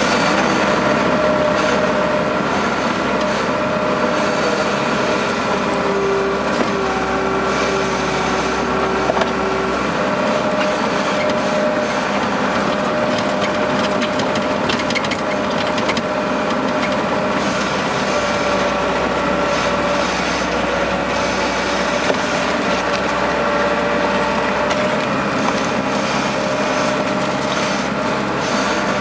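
Case skid steer loader's diesel engine running steadily under work, with a whine whose pitch shifts now and then and scattered light clicks and knocks.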